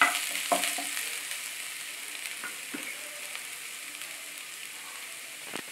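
Minced garlic and ginger sizzling in hot oil in a non-stick wok (kadhai). A spatula scrapes the pan a few times in the first couple of seconds, then the sizzle carries on alone and slowly fades.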